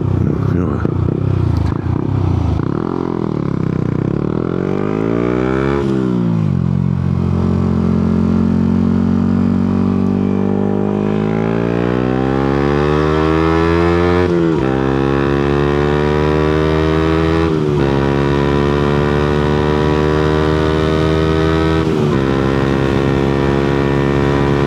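Yamaha MT-125's single-cylinder four-stroke engine on the move. The revs sag in the first few seconds, then climb steadily under acceleration, dropping sharply at three upshifts, about halfway, about two-thirds of the way through, and near the end.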